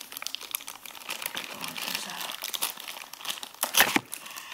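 Plastic toy packaging being handled and opened, crinkling and crackling steadily, with one louder snap about four seconds in.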